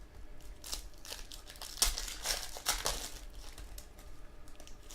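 Trading card pack wrappers crinkling and tearing in short, irregular rustles as packs are opened and handled.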